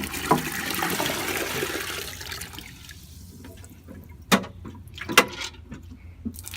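Water pouring from a dehumidifier bucket's spout into a container, tapering off over the first two or three seconds as the bucket empties. Two sharp taps follow, about a second apart.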